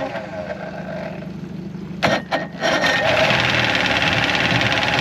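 An engine running loudly and steadily. It drops away about two seconds in, a few sharp clicks follow, and then it comes back louder.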